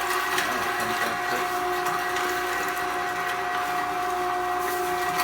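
Vevor heavy-duty electric meat grinder running steadily, its motor giving a constant whine as it grinds a raw whole chicken, bones included.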